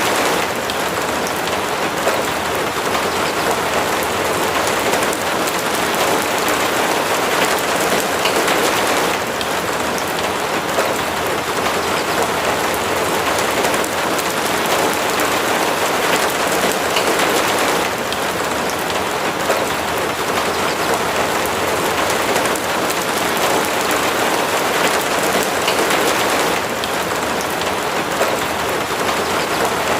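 Steady rain falling: an even hiss with faint scattered drop ticks, shifting slightly in level about every nine seconds.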